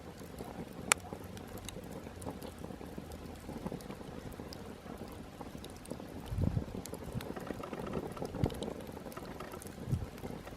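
Small campfire crackling, with scattered sharp pops, one loud pop about a second in, and a few low thumps around six and a half and ten seconds in.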